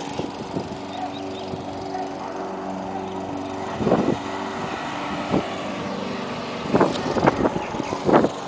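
An engine running steadily at idle, with a few short knocks or noises on top.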